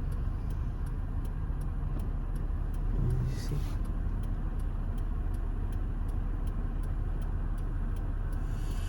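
Steady low rumble of a car driving, heard from inside the cabin, with a brief hiss about three seconds in.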